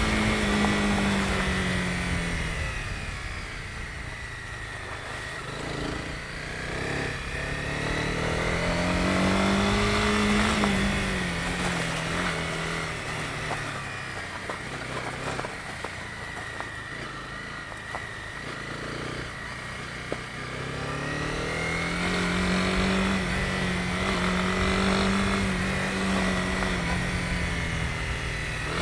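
Honda CB250R's single-cylinder engine under way, its pitch rising and falling repeatedly as the throttle is opened and eased off. It is louder near the start, around a third of the way in, and again through the last part.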